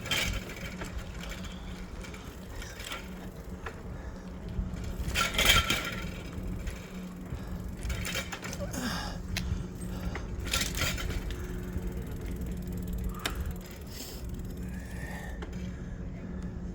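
A bicycle being ridden, with its parts rattling and clicking over a steady low rumble. There is a louder rattle about five seconds in.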